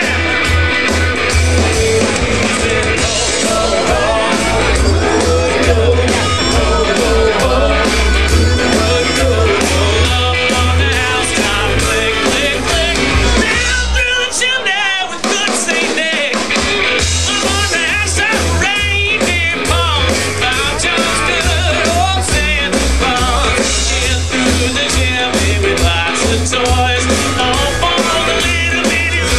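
Band playing an upbeat rock-and-roll style song with singing over a heavy bass beat. The bass drops out for about two seconds near the middle, then comes back in.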